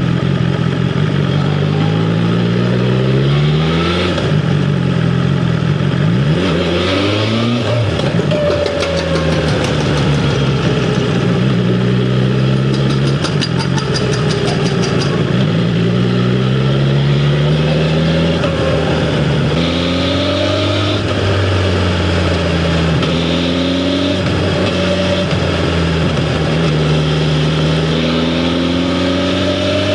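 BMW S1000R's inline-four engine under way, its pitch climbing and dropping again several times as the bike accelerates and eases off.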